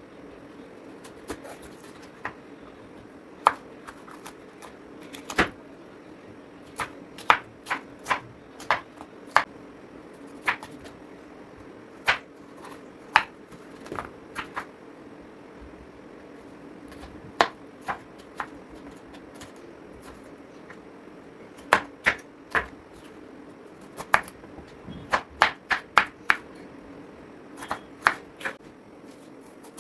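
Knife cutting vegetables on a cutting board: single sharp cuts at irregular intervals, sometimes in quick runs of three to five, with a steady low hum underneath.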